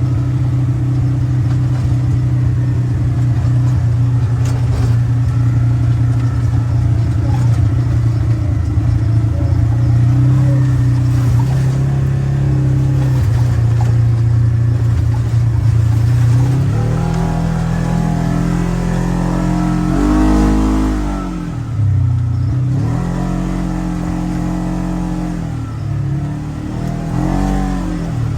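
Polaris General XP 4 1000 side-by-side's parallel-twin engine running under way, steady at first, then, a little past halfway, its speed rising and falling again and again with the throttle, dropping low once before picking back up.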